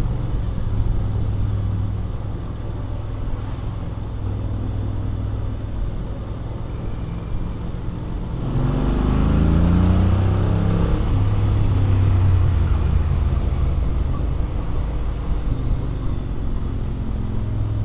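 Honda X-ADV 750's parallel-twin engine running under way, on a stock exhaust with an Akrapovic manifold, with a steady low drone. About eight seconds in it accelerates, the note rising in pitch and getting louder for a couple of seconds, then it settles back to a steady cruise.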